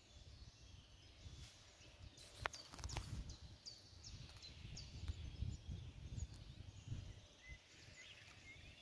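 Faint birdsong: a series of short, high, falling chirps repeating throughout, over a low uneven rumble. Two sharp clicks come about two and a half and three seconds in.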